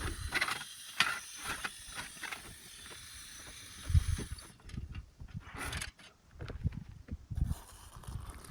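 A steady hiss, likely a camp stove burner, cuts off suddenly about halfway through. Clicks and knocks of gear being handled run through it, and low thumps follow.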